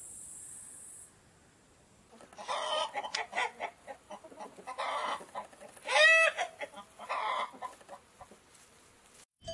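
Domestic chickens clucking in a run of short calls, with one louder, longer call about six seconds in. Before that, a steady high hiss cuts off about a second in.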